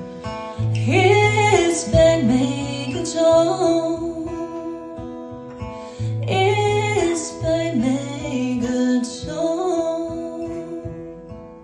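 A woman singing two slow phrases of a ballad to acoustic guitar accompaniment, the guitar ringing on alone near the end.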